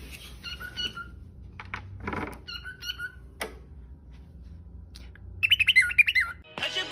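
A pet bird chirping a few short calls, then a quick wavering warble about five and a half seconds in. Music starts just before the end.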